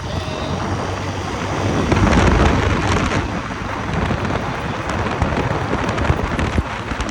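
Wind buffeting the microphone on a moving moped, over the steady low running of its engine; the rush of wind swells about two seconds in.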